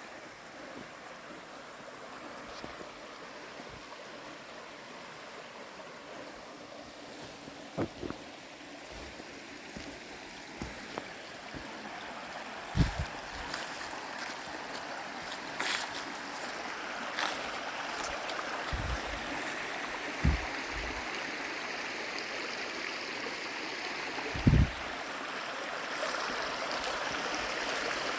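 Creek water running and splashing, a steady hiss that grows louder through the stretch. A few short, low thumps come and go.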